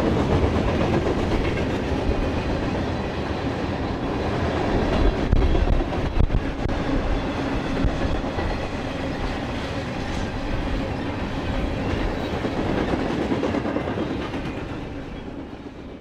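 Tank cars of a freight train rolling past on the rails in a steady rumble with wheel clatter and a few louder knocks about five and six seconds in, fading out near the end. Gusty wind buffets the microphone.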